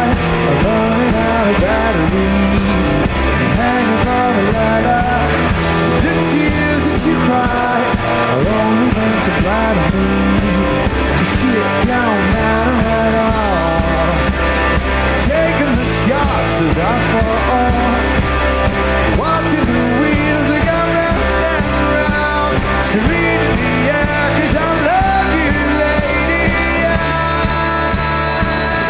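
Rock band playing live, with guitars and singing.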